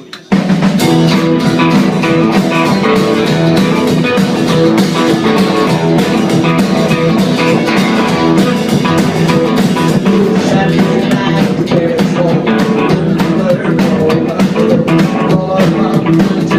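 Loud live band music led by guitar, starting abruptly just after the beginning, with frequent sharp percussive hits.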